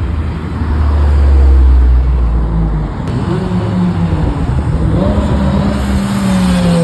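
Car engines accelerating past. A deep engine note swells to its loudest about a second and a half in and drops in pitch as it goes. About five seconds in a second engine revs up, then its pitch falls as it passes.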